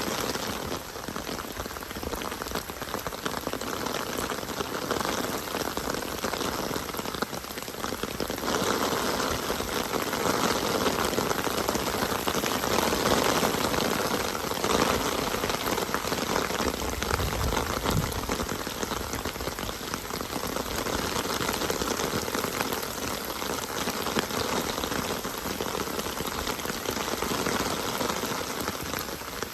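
Steady rain falling and pattering on surfaces, with a brief low rumble about 17 seconds in.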